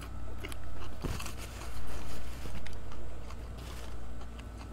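Eating sounds of crispy chicken wings: chewing and handling of the food in short, irregular bursts, over a low steady rumble.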